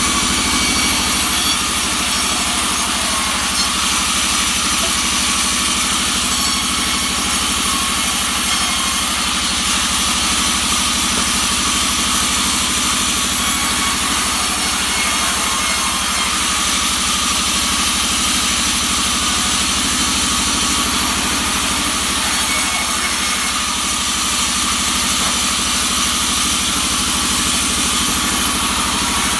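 Engine-powered wood saw with a small engine running steadily while sawing wood, a continuous high buzz with no pauses.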